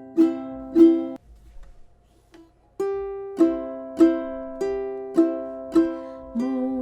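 Ukulele played in a 3/4 waltz strum: one plucked bass note on the fourth string, then two strums, the chords ringing between strokes about every 0.6 s. The playing breaks off for about a second and a half near the start, then resumes in the same rhythm.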